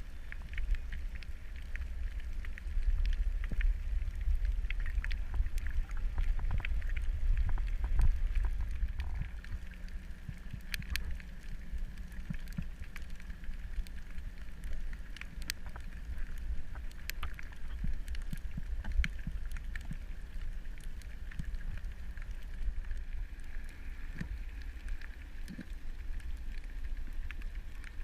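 Underwater sound recorded on a dive: a steady low rumble of water with scattered sharp clicks and crackles throughout.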